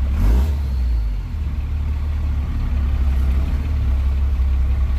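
Old square-body pickup truck's engine running with a steady low drone as it crawls over a rough, rutted trail. There is a thump just after the start as the truck bounces through a hole.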